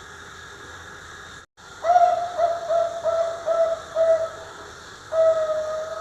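Young zebra dove cooing: a slightly longer note followed by a run of about five short, evenly spaced notes of the same pitch. A single longer note starts near the end. The sound drops out completely for a split second before the run.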